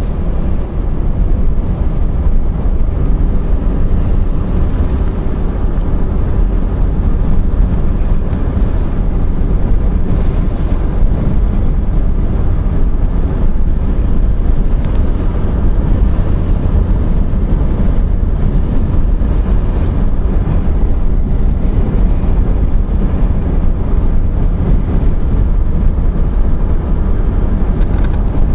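Steady low rumble of a car being driven, road and wind noise with no change in pace.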